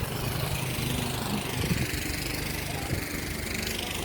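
Small gasoline engine of a snowblower running steadily, with a hiss over it that swells and fades.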